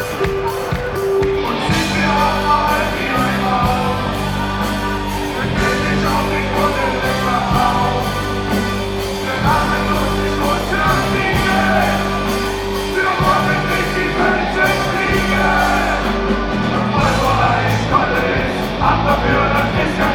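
Live reggae band playing with a sung lead vocal over drums, with the bass line coming in about two seconds in.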